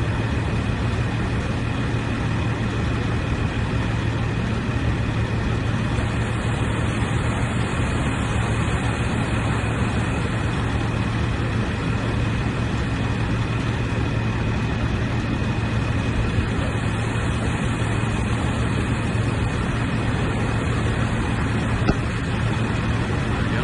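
Steady industrial roar with a strong low hum and a thin high whine, unchanging throughout: the running machinery and furnace noise of a blast furnace plant.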